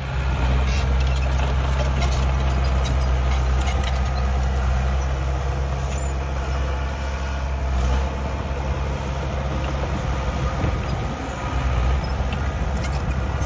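Diesel engine of heavy earthmoving machinery running, its note shifting a couple of times, with scattered metal clanks and rattles.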